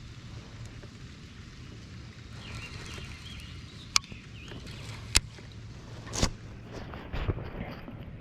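Gear being handled in a kayak: two sharp clicks about four and five seconds in, then a duller knock and some rubbing, over a steady low rumble.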